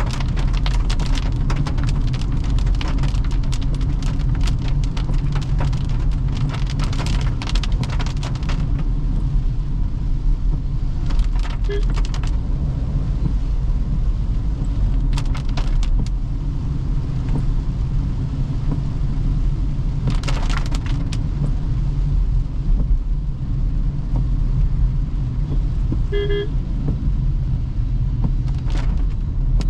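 A car driving on a wet road: a steady low road and tyre drone, with heavy raindrops pattering for the first several seconds and then easing to scattered drops. A brief beep sounds near the end.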